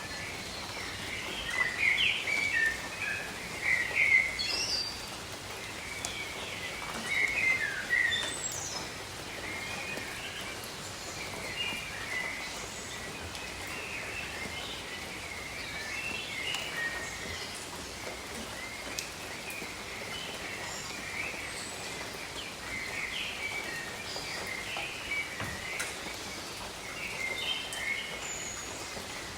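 Steady rain hiss with many birds chirping over it in short overlapping calls, the loudest bursts in the first eight seconds or so.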